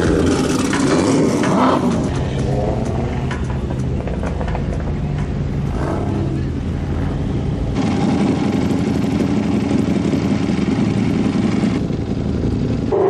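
Car engines running, with people talking over them. The sound changes abruptly about eight seconds in and again near the end.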